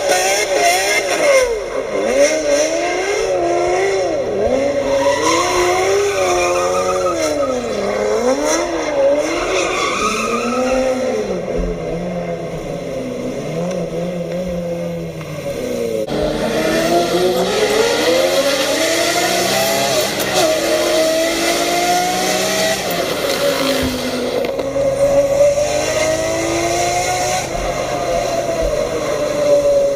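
Car engines revving, their pitch rising and falling every second or two, with tyre squeal. The sound changes abruptly about halfway through.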